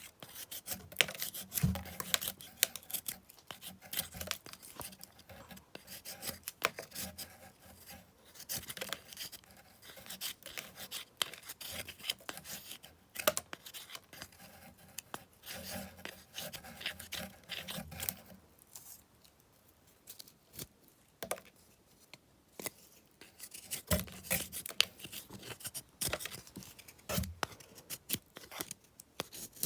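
Mora knife shaving a still-green plant stalk: a long run of short, irregular scraping cuts, which pause for a few seconds a little past the middle.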